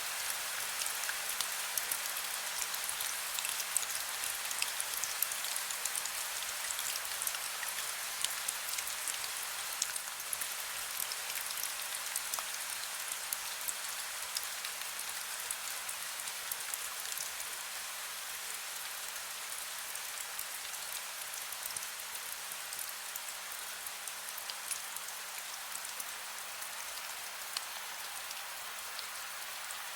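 Heavy rain falling steadily: a dense hiss thick with the sharp patter of individual drops, easing very slightly toward the end.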